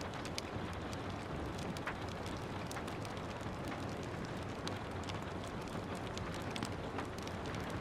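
Wood fire crackling with frequent small sharp pops over a steady hiss of rain.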